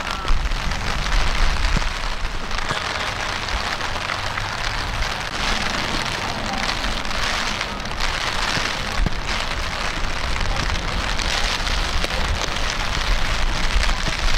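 Steady rain falling, an even hiss, over a low rumble, with a sharp knock near the start.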